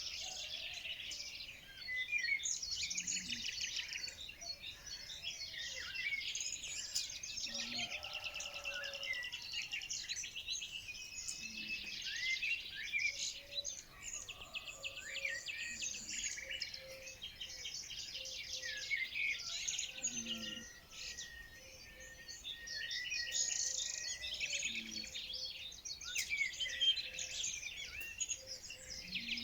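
Many small birds singing and chirping over one another in a dense, continuous, high-pitched chorus.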